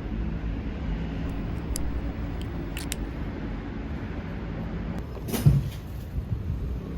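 Steady low rumble of a road vehicle running, with a few faint clicks and a single sharp thump about five and a half seconds in.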